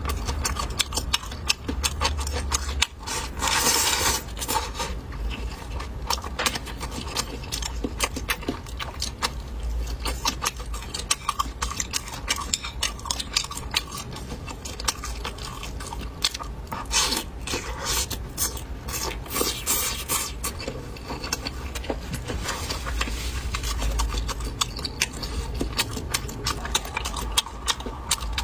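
Close-miked eating: chewing and biting, with many short clicks and scrapes of utensils against dishes.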